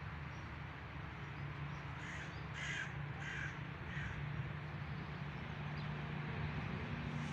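A crow cawing four times in quick succession, over a steady low hum.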